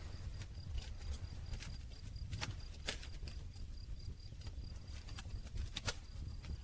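Campfire wood crackling with irregular sharp pops over the low, steady rumble of the flames; the loudest pops come about two and a half, three and six seconds in.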